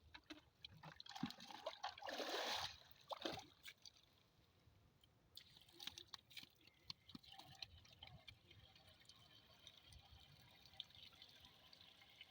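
Faint trickling and dripping water with scattered small clicks, and a brief louder rush about two seconds in.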